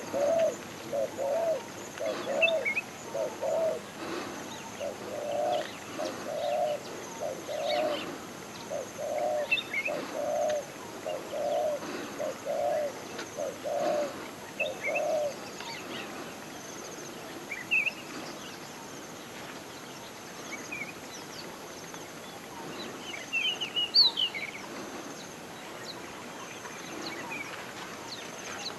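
A dove cooing in a steady run of low notes, about one and a half a second, that stops about halfway through. Other small birds give short high chirps throughout, with a louder burst near the end.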